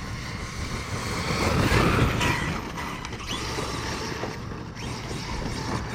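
Arrma Kraton 8S 1/5-scale electric RC truck driving, its brushless motor and drivetrain gears whining with tyre noise on rough ground. It gets louder around two seconds in, with the pitch gliding as the throttle changes.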